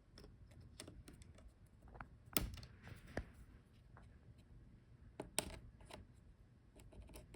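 Faint, scattered small clicks and taps as the laptop's Wi-Fi antenna wire connectors are lifted off their sockets, with two louder clicks about two and a half and five and a half seconds in.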